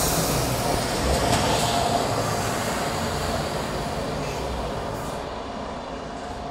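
A passenger train passing on the tracks: a steady rumble and rush of wheels on rail that slowly fades as it moves away.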